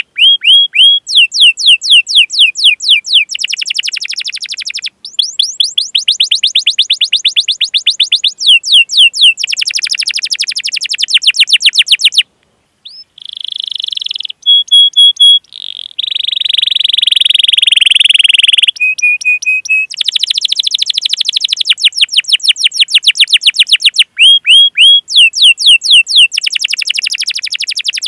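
Domestic canary singing: long runs of rapid, repeated downward-sweeping chirps (the 'cuit cuit' call) alternating with rolled trills, with a brief break and a buzzy trilled passage near the middle.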